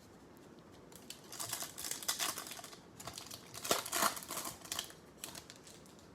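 Foil trading-card pack wrapper being crinkled and torn open by hand, in two rustling spells from about one second in to about five seconds in.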